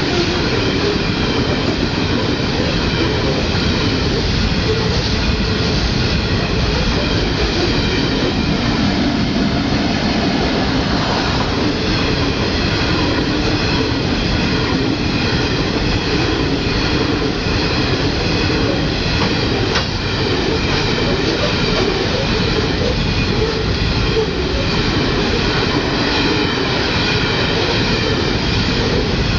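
Coal train wagons rolling steadily past, a continuous loud rumble of wheels on rail with a thin steady squeal above it.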